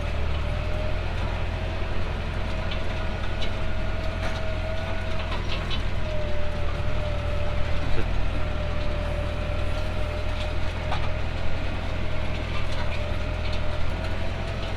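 Tractor engine running steadily under load while pulling a four-furrow reversible plough through the soil, a constant low drone with a steady whine over it and scattered light clicks and knocks.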